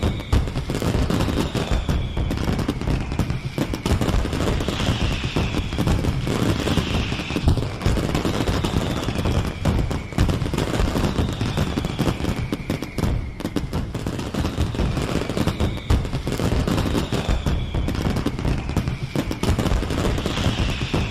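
Fireworks display: a dense, continuous barrage of rapid bangs and crackling, with whistling fireworks that fall in pitch repeating every couple of seconds.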